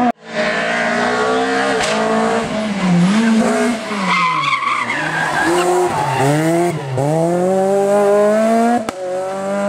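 Rally car engine revving hard, its pitch climbing and dropping again and again through gear changes, with a dip in the middle as the car slows and then several quick rising climbs as it accelerates away. Tyre squeal and a hiss of noise sound in the middle.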